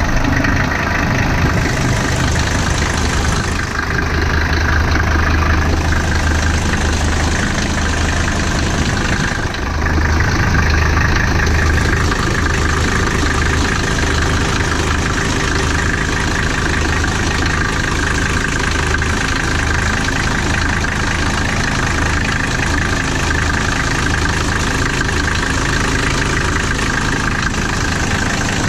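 Mercedes OM617 five-cylinder diesel idling steadily just after a cold start, its level dipping briefly about four and ten seconds in.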